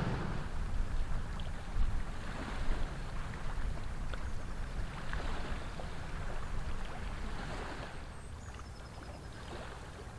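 Low, steady engine rumble of a passing Rhine inland cargo vessel, heard across the water with some wind noise, fading a little near the end.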